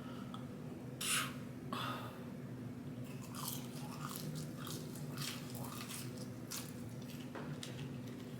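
A person biting and chewing food close to the microphone: a string of short, irregular chews, with a louder bite about a second in, over a steady low hum.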